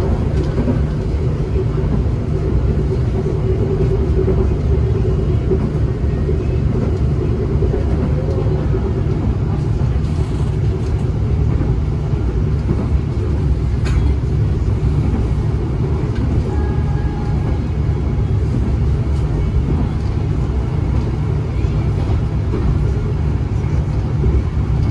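Steady low rumble of a moving passenger train heard from inside the carriage: wheels running on the rails and the car's running noise, with a single sharp click about halfway through.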